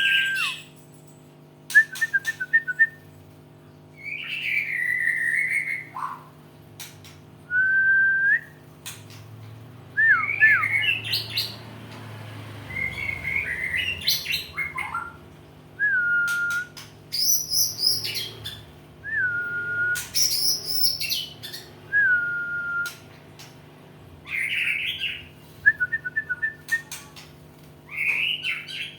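White-rumped shama singing a string of short, varied phrases every second or two: clear slurred whistles, quick stuttering trills and higher squeaky notes, with brief pauses between. A steady low hum runs underneath.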